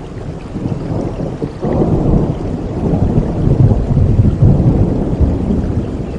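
A long roll of thunder rumbling over steady rain, swelling about a second and a half in and peaking near the middle.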